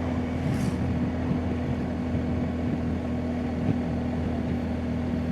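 BMW R1250GSA's boxer-twin engine running at a steady cruising speed, with wind and road noise. The engine note holds one steady pitch throughout.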